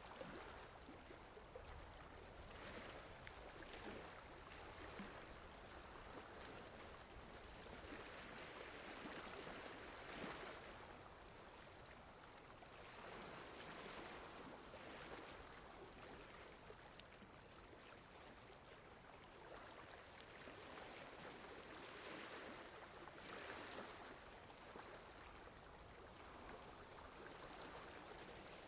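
Soft, steady rain falling, an even hiss that swells and eases every few seconds.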